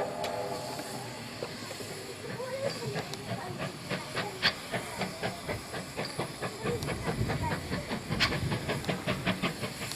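Steam locomotive working: steam hissing, with a run of regular sharp beats that grows quicker and more prominent through the second half. A short pitched tone sounds right at the start.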